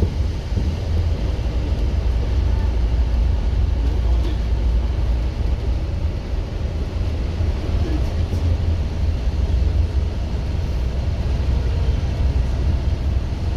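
Scania K230UB OmniLink single-decker bus's five-cylinder diesel engine running while the bus is under way, a steady low drone with no sharp changes in revs.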